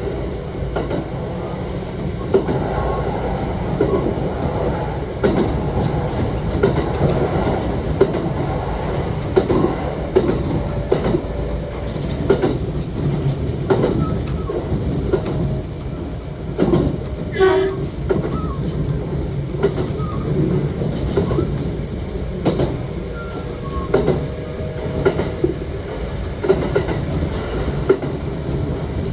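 Running sound of a Kintetsu 1031 series electric train with Hitachi GTO-VVVF traction: a steady rumble and motor hum, with wheels clicking over rail joints every second or two. A brief wavering tone rises about two-thirds of the way through.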